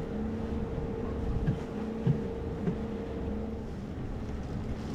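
A catamaran's engines running at low revs, a steady rumble with wind on the microphone. A steady hum over it stops about three and a half seconds in, and there are a few light knocks.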